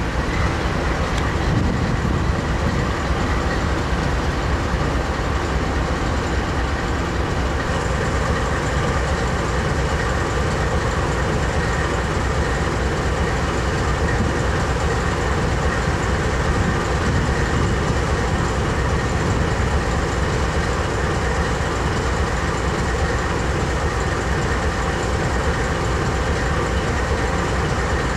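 Diesel freight train locomotive running steadily, a continuous low engine rumble mixed with rail noise.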